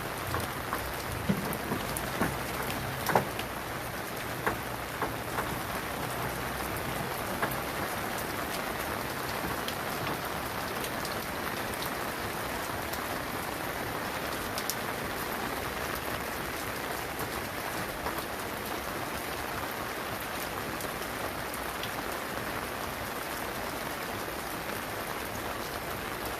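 Steady rain falling, with sharp drops or taps striking now and then in the first several seconds.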